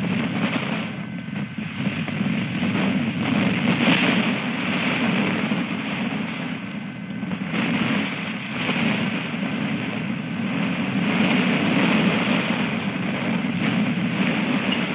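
Wind buffeting an outdoor camera microphone: a steady rushing noise that swells and eases in gusts every few seconds.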